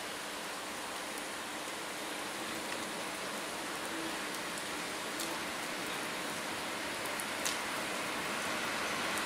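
Approaching electric train, a steady hiss of rolling noise that grows slowly louder, with a sharp click near the end.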